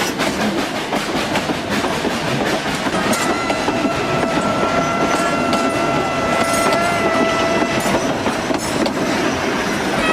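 Train passing close by, its wheels clattering over the rails, with its horn sounding one long steady blast from about three seconds in until about eight seconds in.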